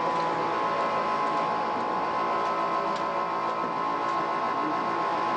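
Steady background hum and hiss with a constant high tone, with no distinct events.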